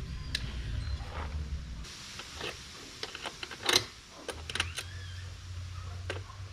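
Scattered sharp clicks and light metallic taps of parts being handled, the loudest about four seconds in, over a low hum that stops about two seconds in and starts again after about four seconds.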